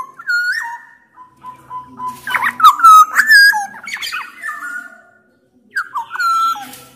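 Black-naped oriole singing loud whistled phrases in three bursts: one at the start, a longer run about two to four seconds in, and a short one near six seconds, with a brief pause between.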